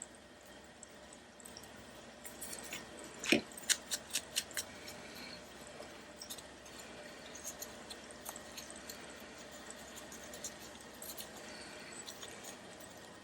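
Faint handling of paper craft pieces on a work surface: light rustling with a sharp click about three seconds in, followed by a quick run of small taps, then scattered soft ticks.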